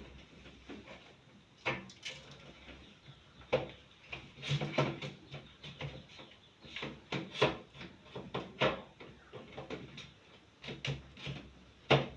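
Irregular knocks, clicks and clatters of fridge parts being handled, such as a drawer or shelf being pulled and moved.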